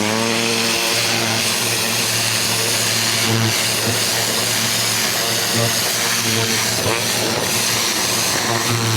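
Ryobi electric pressure washer's motor and pump coming up to speed at the very start, then running steadily under load with a hum and the hiss of the water spray.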